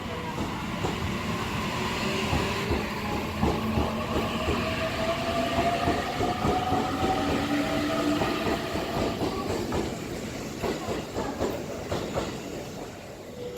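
Electric train pulling out: a motor whine that climbs slowly in pitch as it gathers speed, over wheels clattering across rail joints, fading in the last few seconds.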